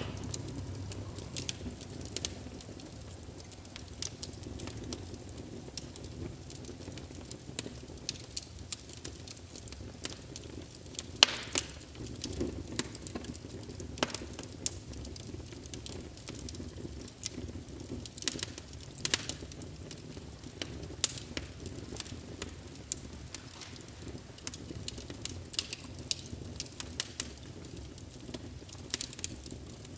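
Wood fire in a fireplace crackling: frequent sharp pops and snaps of varying strength over a soft low rush of flame, with one louder pop about eleven seconds in.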